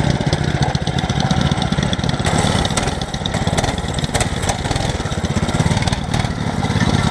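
Small mini bike engine running steadily, with a fast, even pulsing throb.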